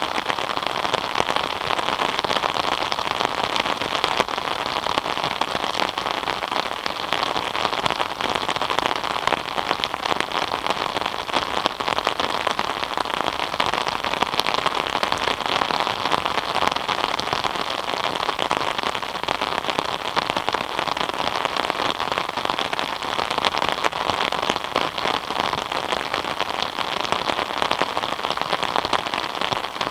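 Steady rain falling and pattering on surfaces, a dense even hiss of many fine drops.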